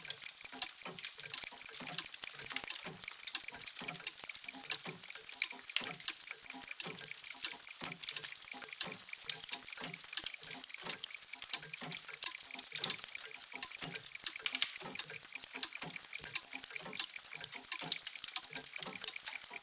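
Many mechanical clocks ticking at once, their overlapping ticks forming a dense, steady patter of many clicks a second with softer low tocks mixed in.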